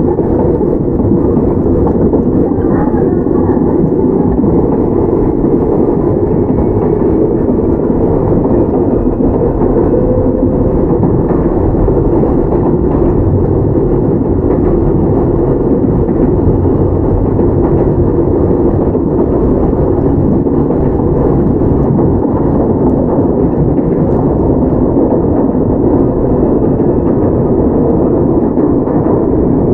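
Toyama Chiho Railway 17480-series field-chopper electric train (ex-Tokyu 8090) running along, heard from inside the car: a steady, loud running noise of wheels on rail and the motors, with a faint high whine held above it.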